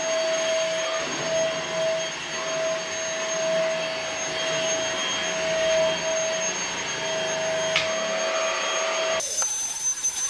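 Temu cordless stick vacuum, a Dyson knockoff, running steadily with a constant whine as it sucks a blockage out of another vacuum's hose. The sound cuts off abruptly about nine seconds in.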